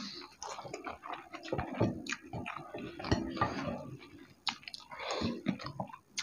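Two people chewing mouthfuls of rice and curry eaten by hand, with irregular short clicks and wet mouth sounds, and fingers mixing rice on the plates.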